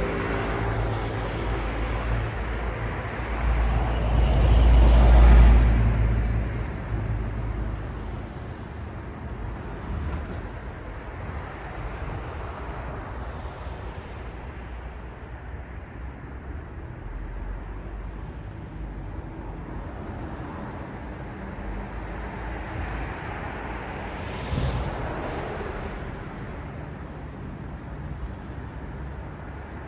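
City street traffic: a steady rumble of cars, with one vehicle passing close and loud around five seconds in and another, quieter pass shortly before the end.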